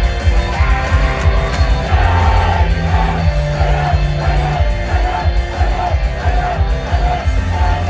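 Live rock band playing loudly, with heavy bass and drums; a singer's voice comes in about two seconds in.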